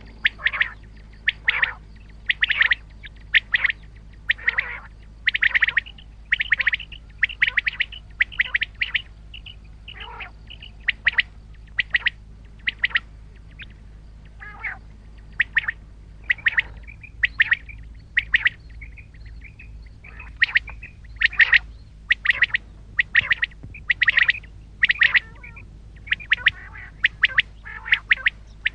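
Common quail calling: short, sharp notes repeated about once a second, often in quick groups of two or three, over a steady low hum.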